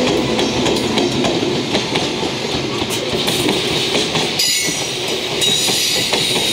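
JR Freight container train passing close by: an EF210 electric locomotive, then the container flat wagons, with a steady rumble and wheels clacking over rail joints. A thin high wheel squeal rises over it in the second half.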